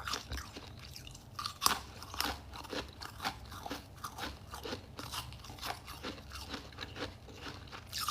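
A person biting and chewing crisp ice, close to the microphone: irregular sharp crunches several times a second, the loudest a crack a little under two seconds in.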